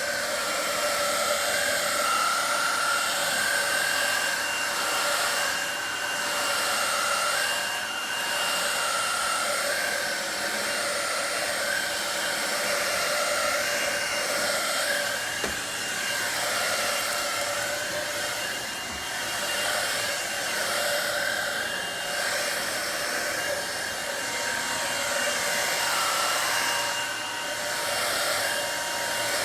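Shark Navigator Freestyle SV1106 cordless stick vacuum running steadily while vacuuming, a motor whine over a broad rushing hiss, its pitch wavering slightly as the vacuum is pushed back and forth.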